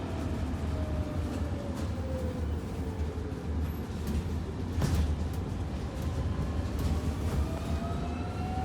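Electric bus drive motor whining over low road rumble. The whine falls in pitch as the bus slows over the first few seconds, then rises again as it speeds up near the end. A few light knocks sound from the cabin.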